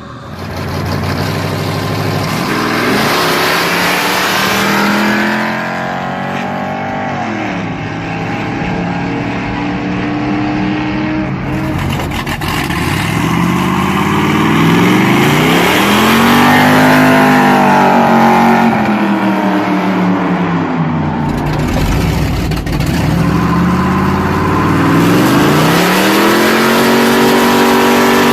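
Muscle car engine revving and accelerating, its pitch climbing and falling in three long sweeps.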